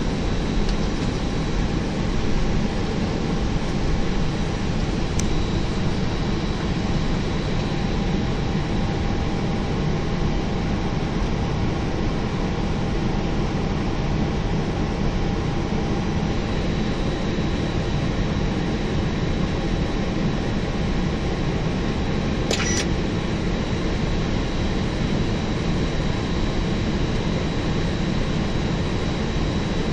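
Steady rushing noise inside an Airbus A321 cockpit: airflow and engine noise with a faint, steady high-pitched tone over it. A single short click comes about two-thirds of the way through.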